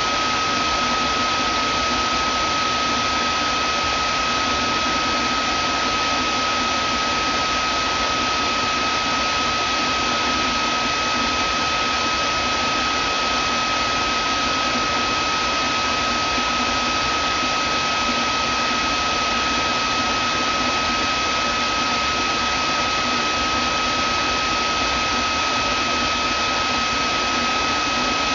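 Vacuum cleaner motor running steadily: an even rushing of air with a constant high whine on top.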